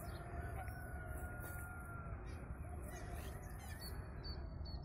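Distant birds calling: one long, even call lasting about two seconds in the first half, then a few short high chirps near the end.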